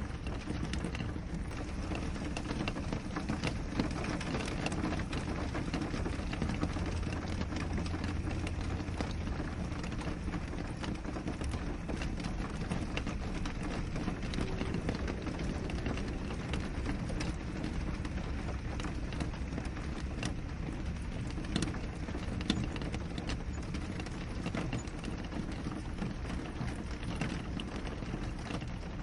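Steady rain falling on a window: an even wash of rainfall with many separate drops tapping throughout, a couple of slightly sharper taps a little past the middle.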